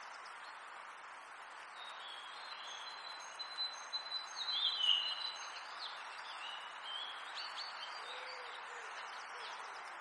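Wild birds chirping and singing over a steady background hiss, with the loudest run of high chirps about halfway through.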